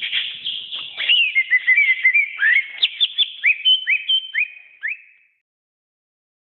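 Green leafbird (cucak ijo) singing a fast, varied run of high whistled and slurred notes. It ends in a series of short rising whistles, then stops abruptly.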